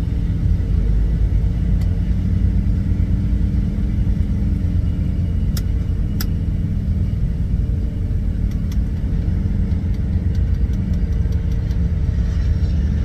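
Semi truck's diesel engine running steadily, with a low rumble. Two sharp clicks come about five and a half and six seconds in.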